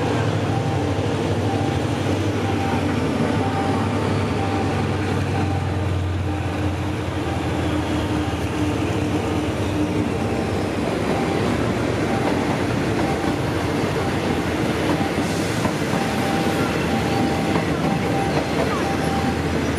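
Diesel-hauled passenger train passing over a level crossing: a low engine hum dominates the first few seconds, then the coaches' wheels rattle and clack over the rails. Through it, a level-crossing warning bell rings in short repeated pulses.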